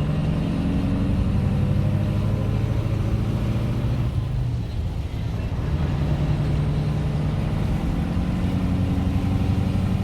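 Scania 141's 14-litre turbocharged DS14 V8 diesel running under load as the truck drives. The engine note falls away briefly about halfway through during a gear change, then picks up again.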